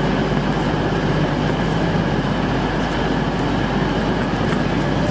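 Passenger train running with a steady, unbroken rumble, heard from inside the carriage.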